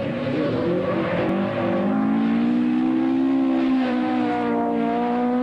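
Ford Escort rally car's engine revving hard as the car accelerates past. Its pitch climbs for about two seconds, then holds high and eases off a little near the end.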